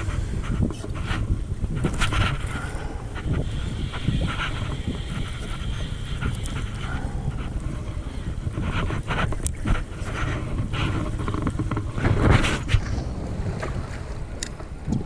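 Wind buffeting the microphone over a kayak on the water, with scattered small clicks and knocks.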